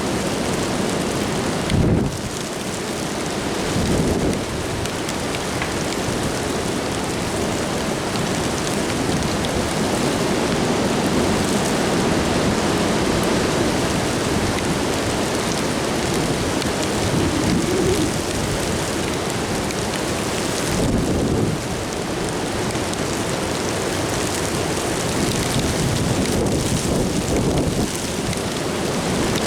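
Steady rain in strong wind: an even rushing noise, with a few short low thumps about two, four and twenty-one seconds in.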